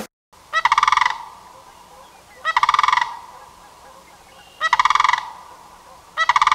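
Four loud, buzzy honks about two seconds apart, each lasting about half a second.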